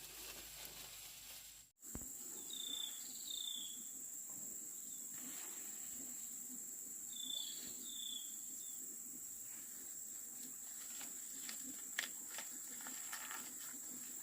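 Outdoor ambience with insects droning on a steady high pitch. Two pairs of short bird chirps come about a second in and again mid-way, and a few light knocks sound near the end.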